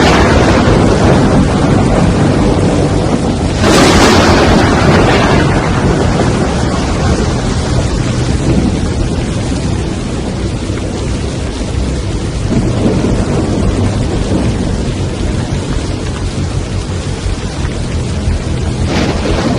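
Storm noise of wind and heavy rain with a continuous deep rumble, surging louder about four seconds in and again near the end.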